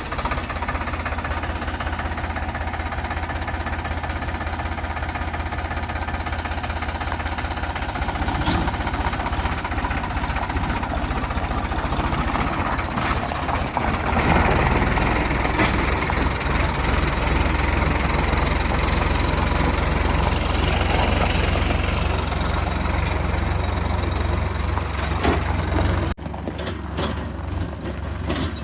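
Heavy diesel machinery engine running steadily. About halfway through it gets louder and busier, then drops abruptly near the end.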